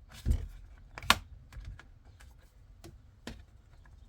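Plastic steering-wheel trim cover being clicked and pressed into place: a string of sharp clicks and knocks, the loudest about a second in.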